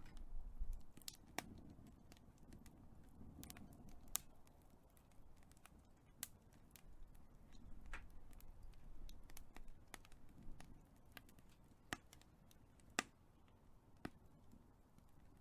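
Big fire crackling: scattered sharp pops and snaps, a few louder ones about a second and a half, four and thirteen seconds in, over a soft low rumble of the flames that swells and fades.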